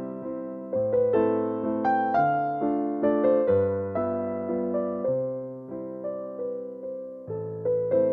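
Slow, gentle piano music: soft chords struck over a low bass note, each left to fade before the next, with no drums.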